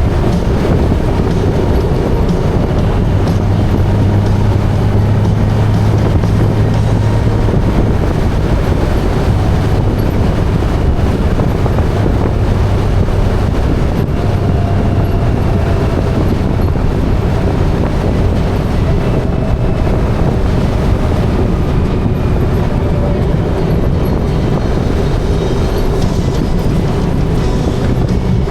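Motorcycle engine running at a steady cruise, with constant road and wind noise and a steady low engine drone.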